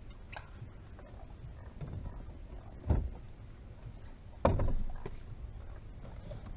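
Two dull thumps, one about three seconds in and a longer one about a second and a half later, over a low steady rumble.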